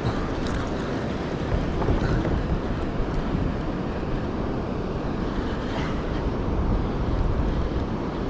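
Wind buffeting the microphone: a steady, rumbling noise with no clear events in it.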